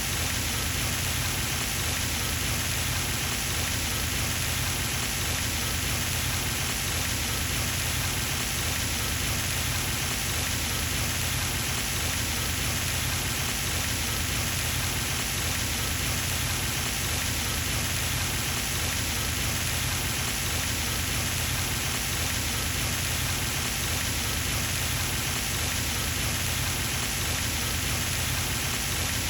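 Pond fountain: water spraying and falling back onto the pond surface, a steady, unbroken splashing hiss.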